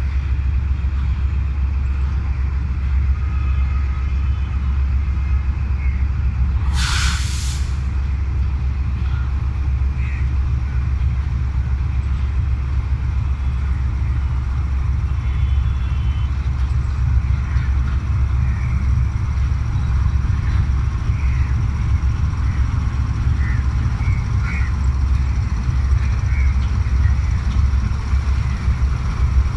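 GE GEU-40 diesel-electric locomotive's 12-cylinder GEVO12 engine running with a steady deep rumble. About seven seconds in comes a short, sharp hiss of compressed air being released.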